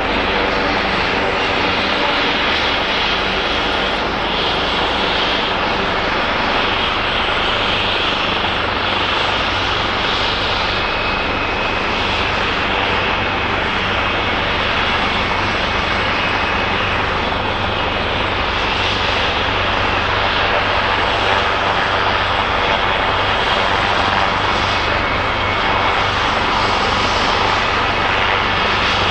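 Helicopter running close by, its engine and rotor making a loud steady noise with a low hum that neither rises nor falls.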